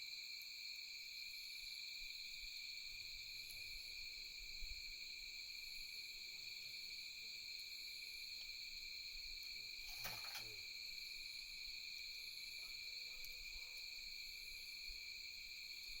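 Faint, steady chorus of night insects, several high continuous trills layered together, with a fainter chirp repeating about every second and a half above them. A single snap from the campfire about ten seconds in.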